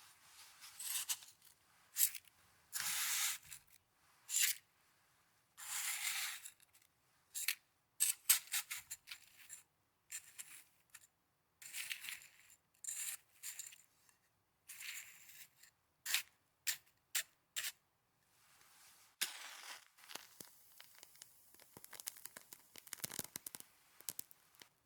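Snow being crunched and scraped close to the microphone: a string of short crisp crunches and a few longer rasping scrapes of about a second each, turning into a denser run of fine crackling near the end.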